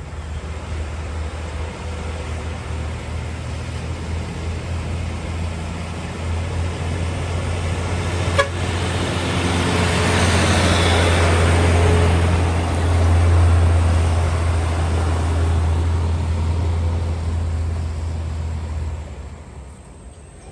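Heavy diesel truck engine running under load with a deep low drone, swelling to its loudest midway as the truck passes and dropping away near the end. A single sharp click about eight seconds in.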